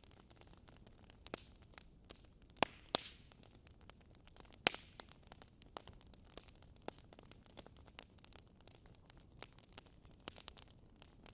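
Wood fire crackling in a fireplace: a steady scatter of small ticks and pops, with a few louder pops between about two and five seconds in.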